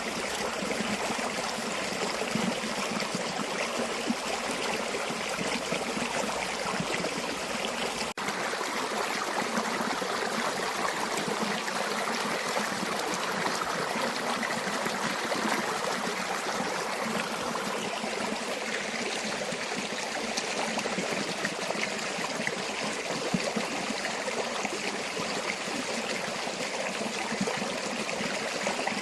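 A stream of water flowing and gurgling steadily, with a brief dip in level about eight seconds in.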